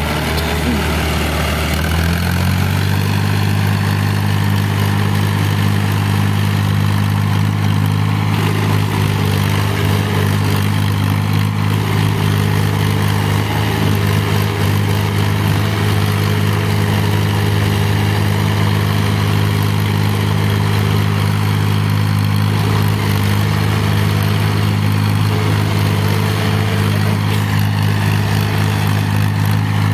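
Modified tractor diesel engine running hard. Its revs climb over the first two seconds or so, then hold steady and high, as in a tractor tug-of-war pull.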